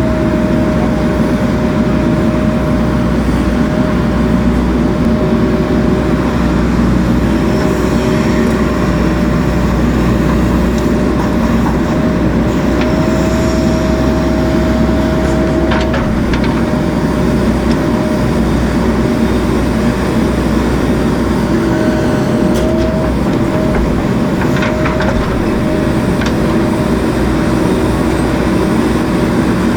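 JCB 3DX Super backhoe loader's diesel engine running steadily while working, with a constant high whine over it and a few short knocks about halfway through and again a little later.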